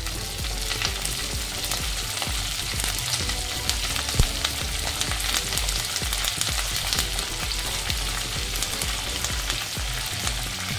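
Curry leaves with chana dal and urad dal sizzling and crackling in hot oil in a kadhai: a steady hiss full of small pops, with one sharp click about four seconds in.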